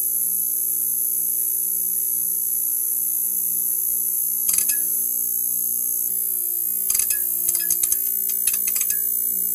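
Neon sign buzzing with a steady electrical hum and a high-pitched hiss, broken by a brief crackle about halfway through and a run of sputtering crackles over the last few seconds.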